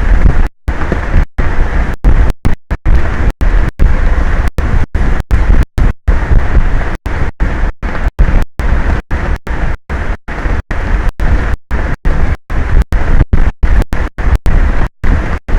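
Strong wind buffeting an outdoor microphone: a loud rumbling hiss, cut by frequent brief dropouts where the sound stops completely for a moment.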